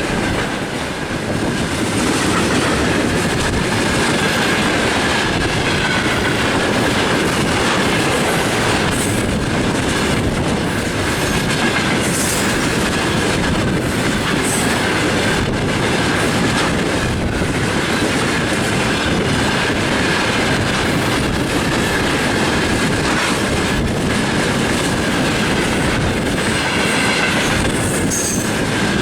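Freight train wagons rolling past, wheels clacking over the rail joints in an uneven rhythm, with a steady high-pitched wheel squeal over the rumble.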